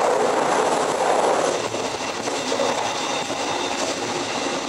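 Passenger train's wheels running steadily on the rails, heard from inside the last coach at its rear window.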